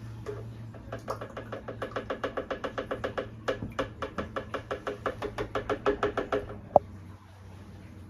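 A kitchen utensil clinking fast and evenly against a container, about five or six strikes a second for roughly five seconds, as ingredients are mixed, followed by a single sharp knock.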